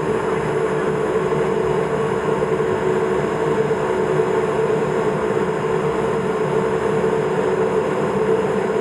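Steady cabin drone of a Cessna P210 Silver Eagle's Rolls-Royce turboprop engine, an even rushing noise with a constant hum, unchanging throughout.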